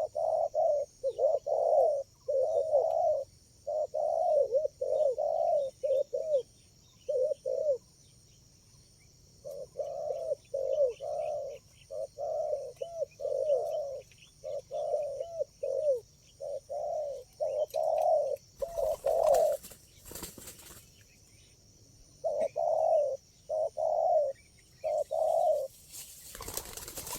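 Spotted doves cooing: runs of short, repeated low coos in phrases, broken by a few pauses. A steady high buzz runs underneath, and about two-thirds of the way through and again near the end there is a burst of rustling noise.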